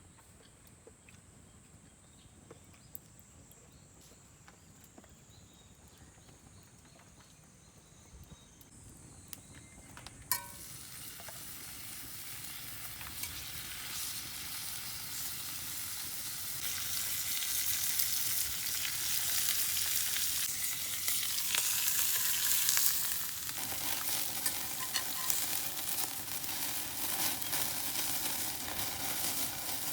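Food sizzling in a hot pan over a wood fire. The sizzle begins with a click about a third of the way in, grows louder over the next several seconds, then stays steady.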